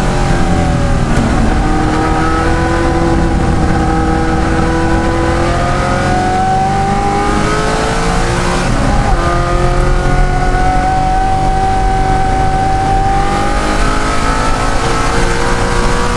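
De Tomaso Pantera's Ford V8 racing engine pulling hard under full throttle. The revs climb steadily, drop sharply at a gear change about halfway through, climb again, and drop at another change near the end.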